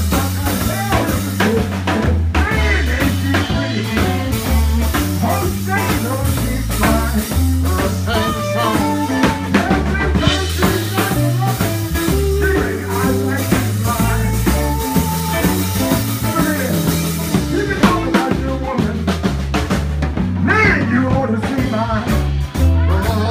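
Live band playing an upbeat blues-soul groove, with a drum kit and a steady walking bass line under the instruments.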